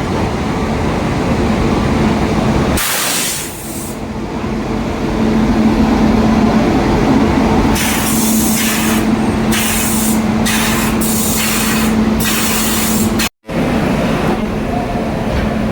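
Train noise: a steady low hum over a continuous rumble, with a series of short, sharp air hisses about eight to thirteen seconds in. The sound drops out for an instant just after that.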